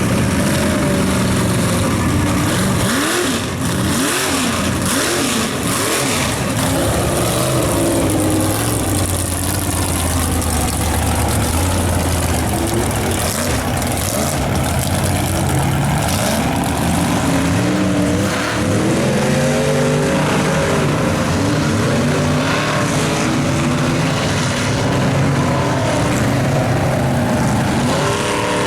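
Chevy mega truck's engine at high throttle while throttling around a mud bog, revving hard with its pitch rising and falling again and again.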